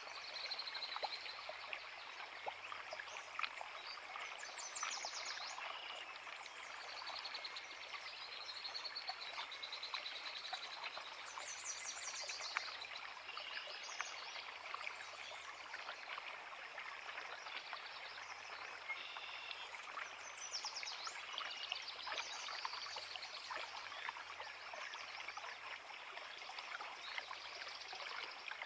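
A creek babbling steadily over rocks, with small songbirds calling over it: short chirps and quick trills, again and again.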